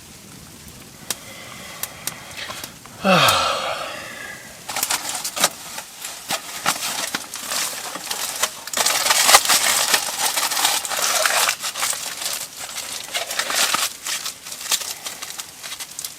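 Aluminium foil crinkling and rustling with many small crackles, as a foil-wrapped baked potato is unwrapped. It is busiest through the middle, and about three seconds in there is one brief sound sliding steeply down in pitch.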